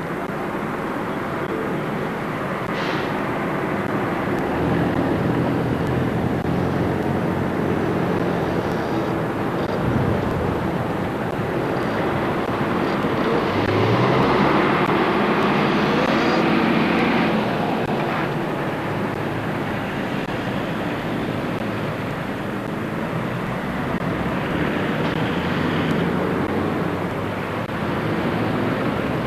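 Diesel locomotive engine running steadily. About halfway through its pitch climbs as it revs up, and it runs louder for a few seconds before easing back.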